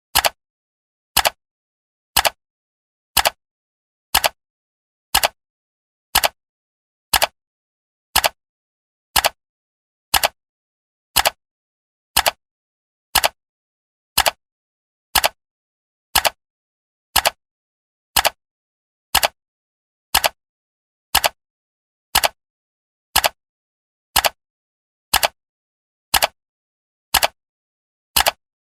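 Clock ticking for a countdown timer: short, sharp ticks evenly spaced at one per second.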